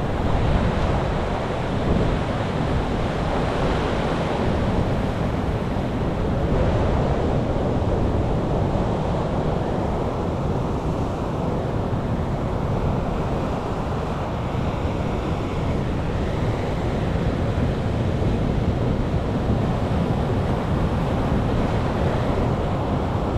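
Large ocean waves breaking and washing in a continuous surf roar, heaviest in the low rumble, swelling slightly near the start and again about seven seconds in.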